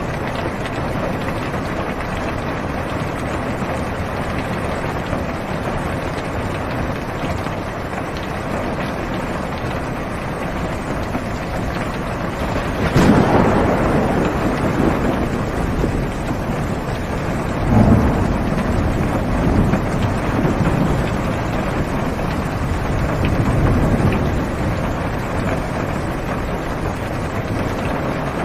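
Heavy rain falling steadily on a car's roof and windows, heard from inside the car. Thunder cracks loudly about halfway through and rumbles off over a few seconds, then a second clap follows some five seconds later with more rolling rumble.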